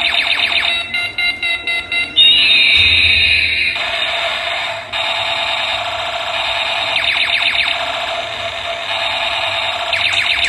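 Electronic siren of a homemade water detector's alarm module going off because water has touched its sensor. It cycles through a fast high warble, a quick run of short beeps and a steady high-pitched tone with a slight waver.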